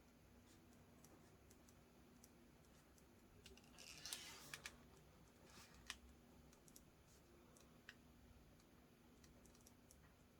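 Near silence: quiet room tone with faint scattered small clicks and a brief soft rustle about four seconds in.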